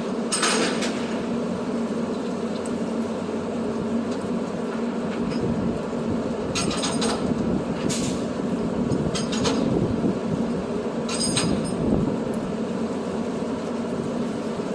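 Heavy truck engine running steadily, with several brief, sharp bursts of higher noise over it.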